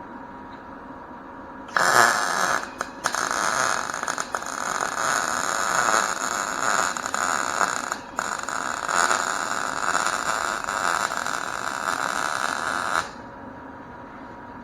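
MIG (gas-shielded wire-feed) welder running a weld bead on sheet steel: a steady arc crackle lasting about eleven seconds, broken twice by brief pauses, then stopping suddenly.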